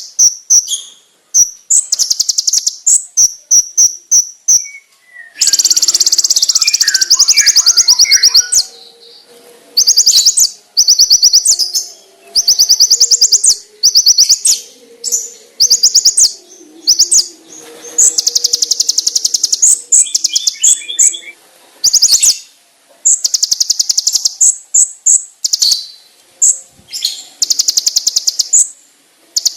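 Kolibri ninja sunbird (konin) singing: sharp, shrill trills of rapid high notes delivered in bursts of a second or two, repeated with short pauses between them.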